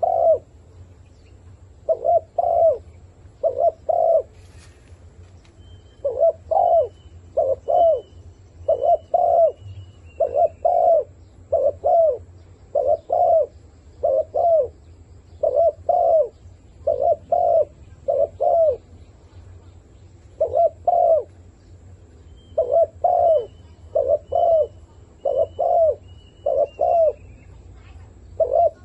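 A decoy dove cooing over and over, short coo notes in runs of two to four with brief pauses between: the calling used to lure wild doves to a trap. A faint thin chirping from another bird sounds at times behind it.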